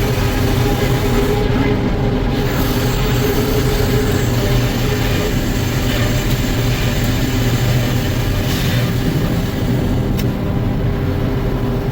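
Sawmill machinery running steadily with a constant mechanical hum of several held tones.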